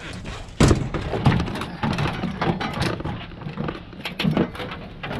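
A run of irregular knocks and clanks from scrap metal being handled, the loudest about half a second in.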